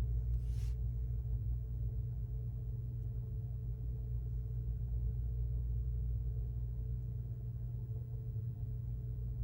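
Steady low background rumble with a faint constant hum, and a brief soft rustle just after the start.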